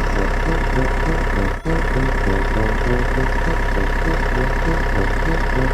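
A vehicle engine running steadily at idle, with a brief dropout about a second and a half in.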